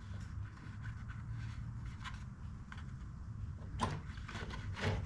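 A few sharp clicks and taps of hand tools and metal blower parts being handled, over a steady low hum.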